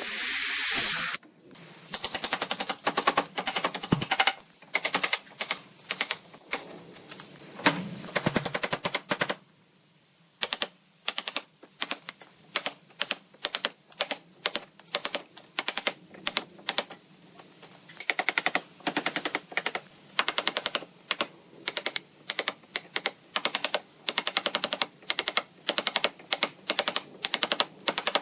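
Rasping or sanding noise for about a second, then quick runs of sharp taps and knocks, several a second, from a hand tool striking work at a bench. The taps stop briefly about ten seconds in, then go on.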